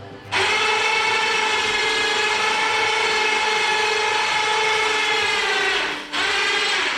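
Electric winch motor whining under load as it drags an engine out of the vehicle: one long pull of about five seconds, sagging slightly in pitch near the end, then a brief stop and a short second pull.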